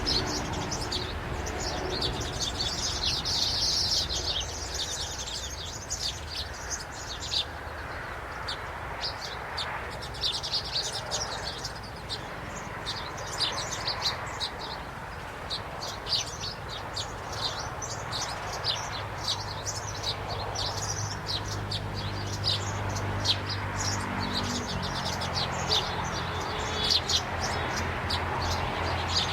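Small birds chirping, many short high chirps in quick, irregular runs, over a low steady hum.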